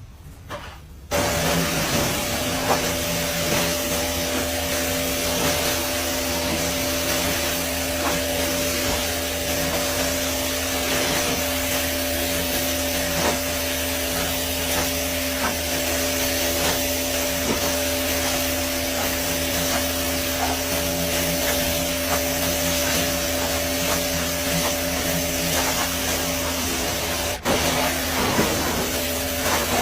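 Car wash machinery running, starting suddenly about a second in: a loud, steady rush with a steady mechanical hum under it.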